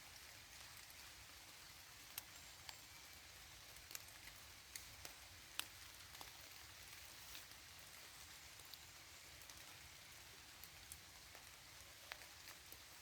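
Faint, steady rain hiss in a forest, with scattered single drops ticking sharply here and there, the loudest about five and a half seconds in.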